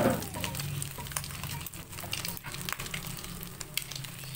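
Egg frying in hot oil in a nonstick pan, sizzling with many small crackling pops as it is stirred and scrambled with a wooden spatula.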